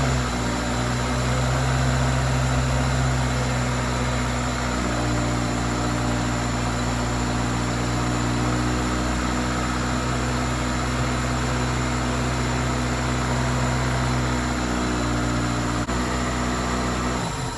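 Toyota Celica's engine idling steadily just after starting, then switched off near the end.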